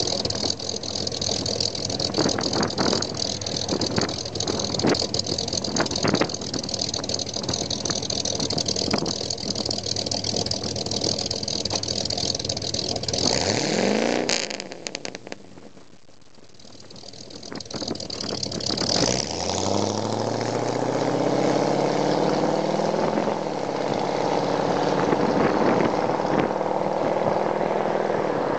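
1975 Mercury Cougar's V8 running through glasspack mufflers. It shuts off about fourteen seconds in, its pitch falling away. About five seconds later it is restarted, the pitch rising and then settling into a steady idle.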